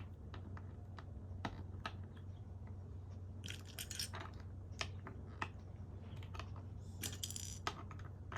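Plastic LEGO pieces clicking and knocking as they are handled, in irregular single clicks. Twice, about three and a half seconds in and again near seven seconds, there is a brief clattering rattle, as of pieces being sifted. A steady low hum runs underneath.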